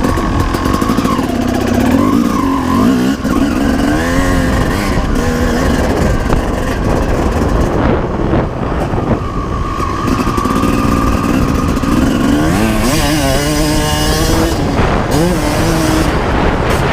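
1995 Honda CR250R two-stroke motocross engine revving under way. It holds steady stretches, and its pitch climbs in repeated rises as it accelerates through the gears, early on and again near the end.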